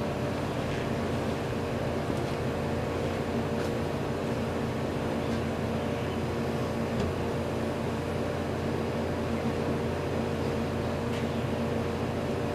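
The sealed compressor of an antique General Electric CJ-1-C16 refrigerator running with a steady hum and a few faint ticks. It has just been started during recharging with R152A and is pulling the low side down into a slight vacuum, drawing about 2.2 amps.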